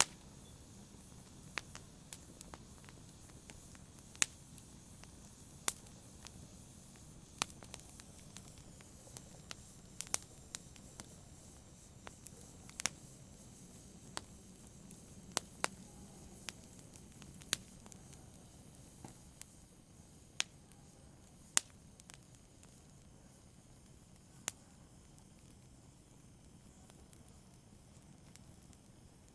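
Campfire crackling: sharp wood pops every second or so over a soft steady hiss, thinning out near the end.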